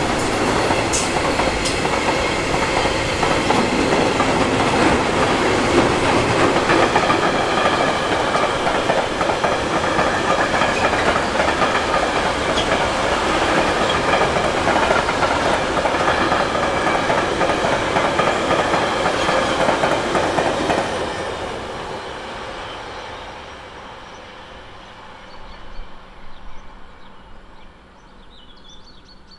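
A train passing on the line, its wheels clattering over the rails for about twenty seconds before the sound fades away.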